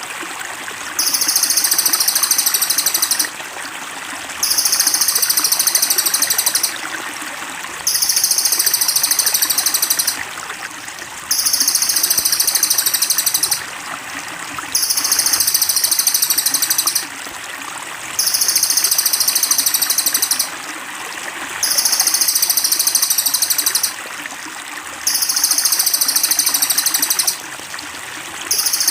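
Cililin masteran recording: a bird's high, rapid buzzing trill, repeated in even bursts of about two seconds with a one-second pause between them, over steadily trickling water.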